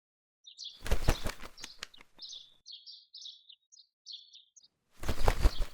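Small birds chirping: short, high chirps repeated several times over the first few seconds. Two loud spells of rapid knocking and rustling noise come about a second in and again near the end.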